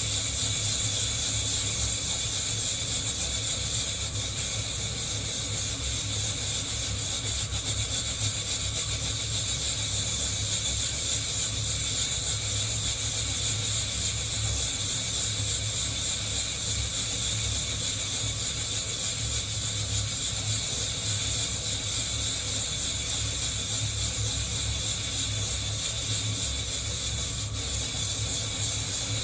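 Coffee beans being shaken in a hand-held mesh roasting net: a steady hissing rustle of the beans rubbing and tumbling against the wire mesh.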